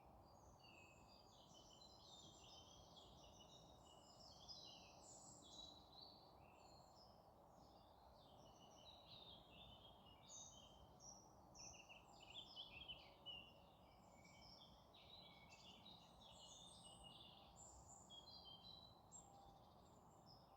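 Faint chorus of many small birds chirping and trilling over one another, with a steady low background hum.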